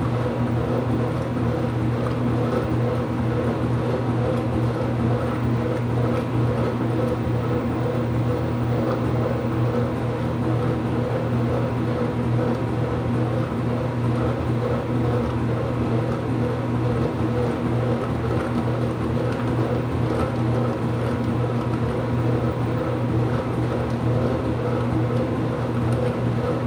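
IPSO washing machine running mid-cycle: a steady motor hum with no breaks.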